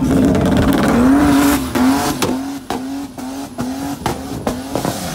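BMW car engine revved hard during a burnout, held at high revs and then bouncing off the rev limiter about three times a second, with a sharp crack at each cut.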